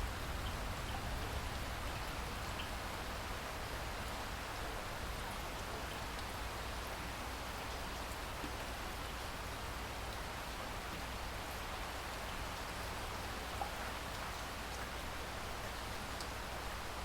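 Steady rain falling, an even hiss scattered with the small ticks of individual drops.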